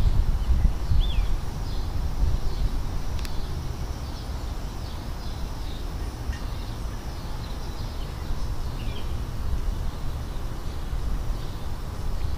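Small birds chirping repeatedly over a steady low rumble, with one sharp click about three seconds in.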